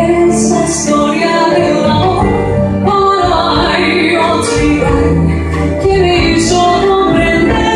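An orchestra playing live with a singer, sustained sung melody over a full band accompaniment.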